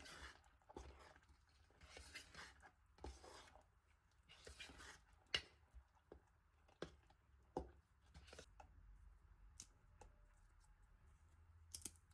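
Quiet kitchen handling sounds while a brownie is being prepared: several short rustling strokes in the first half, then scattered sharp clicks and taps, the loudest pair near the end.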